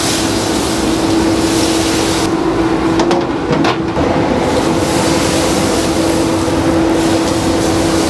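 A machine running steadily, a constant hum with a rushing noise over it, with a second, higher tone joining about halfway and a couple of brief knocks near the middle.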